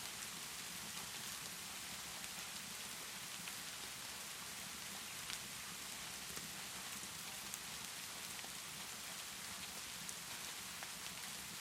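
Steady rainfall hiss with a few sharp crackles from a fireplace scattered through it, one a little louder about five seconds in.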